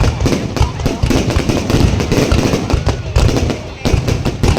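Fireworks going off in rapid, overlapping bangs and crackles, with a continuous low rumble of detonations.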